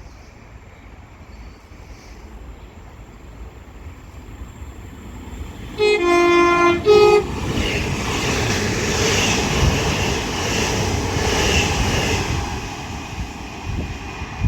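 Northern Class 331 electric multiple unit sounding its horn about six seconds in, a long lower note then a short higher one, as it passes through the station. The rumble and rail noise of the passing train build up, peak after the horn and fade near the end.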